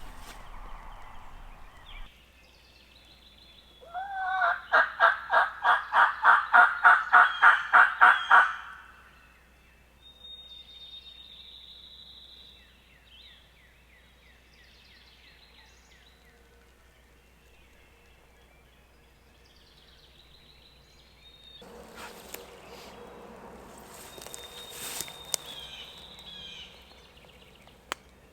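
A turkey call run as a yelp: a loud, even series of about fourteen yelps, roughly three a second, lasting about four seconds. Afterward faint songbird chirps and some rustling.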